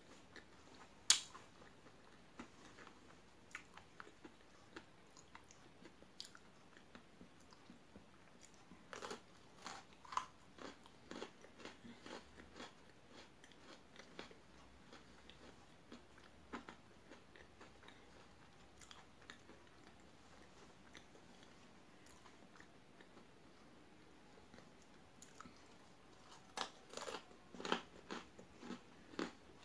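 Close-up crunching and chewing of chocolate-coated Pocky biscuit sticks: a sharp crunch about a second in, more crunches around nine to ten seconds, and a quick run of crunches near the end, with soft chewing ticks between.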